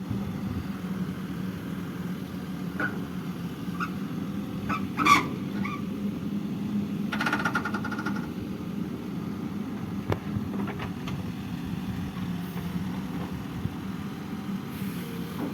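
Tractor engine running steadily, with a sharp knock or crack about five seconds in and a brief high pulsing tone a couple of seconds later.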